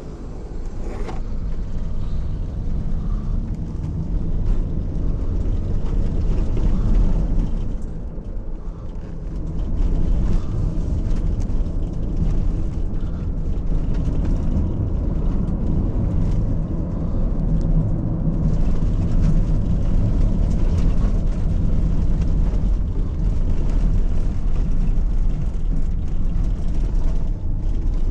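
Car driving along a rough, badly broken country road: a steady low rumble of engine and tyres that builds over the first few seconds, dips briefly about eight seconds in, then holds. A single click sounds about a second in.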